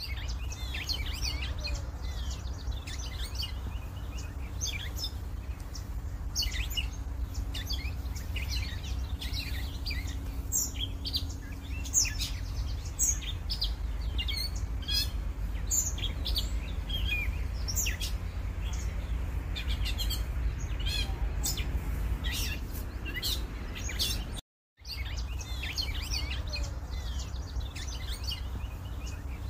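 Small songbirds chirping and calling in many short, high notes over a steady low rumble. The sound cuts out for a moment about three-quarters of the way through.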